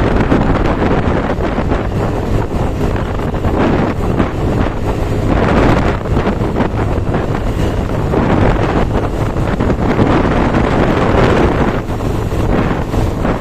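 Wind buffeting the microphone while moving along the road in heavy rain: a loud, steady rumble and hiss.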